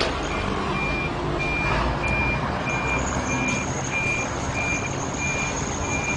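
A truck's reversing alarm beeping evenly, about three beeps every two seconds, over the steady low rumble of its engine.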